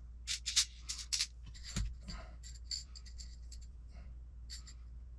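Small screws and parts handled by hand: a run of light clicks and rattles, thickest in the first second or so, then sparser.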